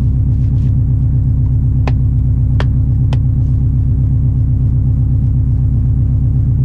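Subaru WRX rally car's flat-four engine idling steadily with an even, pulsing beat, heard from inside the stripped, caged cabin. Three short faint clicks come about two to three seconds in.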